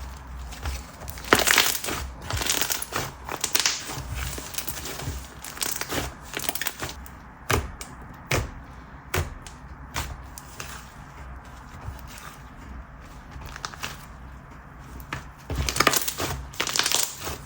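Thick, chewy butter-texture slime being squished, pressed and stretched by hand, giving irregular sticky clicks and small pops. The clicking is busiest about a second in and again near the end.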